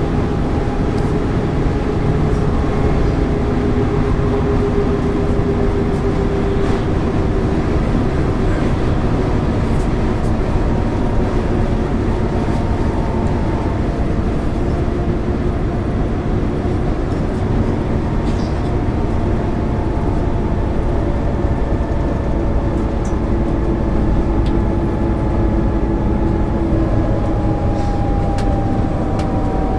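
1999 MAN ÜL 353 bus running on the road, its engine and drivetrain giving a steady drone with tones that drift slowly up and down in pitch.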